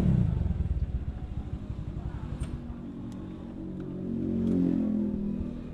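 Motorcycle engine running, loudest at the start and easing off over the first few seconds, then settling into a steadier drone that swells again about four seconds in.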